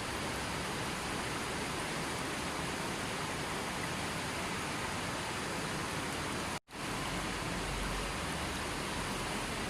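River water rushing steadily. About two-thirds of the way through it cuts out for a split second and comes straight back.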